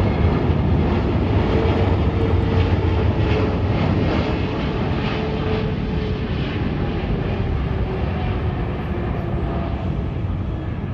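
Jet airliner's engines rumbling as it passes, with a faint whine drifting slightly lower in pitch. The sound slowly fades.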